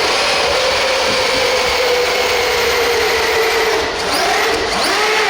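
RC pulling vehicle's motor and drivetrain whining hard under load, its pitch sagging slowly as it drags the sled. Near the end there is a brief dip and a few quick pitch glides.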